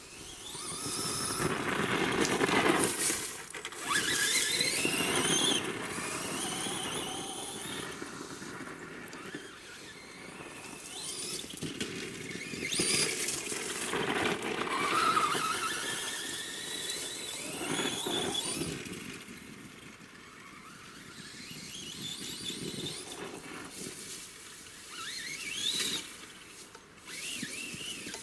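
Traxxas BigFoot RC monster truck's electric motor and gears whining, the pitch rising and falling with repeated bursts of throttle.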